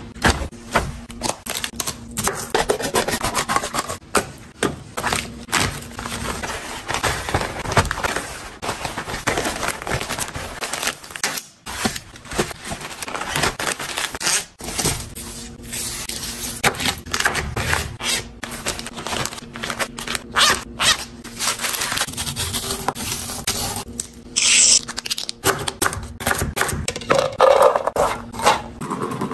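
Kitchen handling sounds from preparing and packing food: scraping and rubbing, with many short clicks and knocks throughout.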